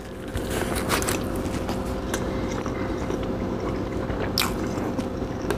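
A person biting into and chewing a brisket and cheddar sub close to the microphone: wet mouth sounds with a few sharp clicks. A faint steady hum sits underneath.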